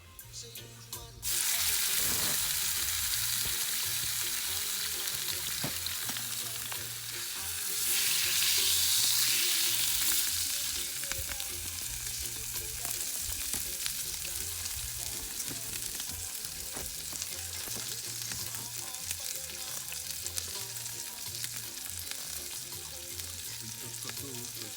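Food sizzling in a hot pan, starting abruptly just over a second in and swelling louder for a few seconds around the middle.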